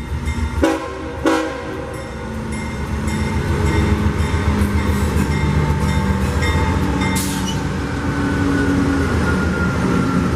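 Freight train's diesel locomotive horn sounding two short blasts about a second in, then the locomotives running steadily, with a thin tone slowly falling in pitch through the second half.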